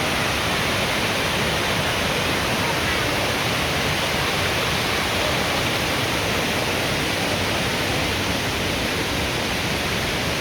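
Waterfall: a steady, unbroken rush of water falling over the cascades.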